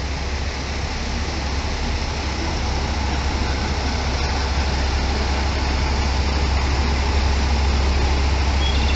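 Anpanman-liveried express train rumbling steadily at the station, its low drone growing slightly louder.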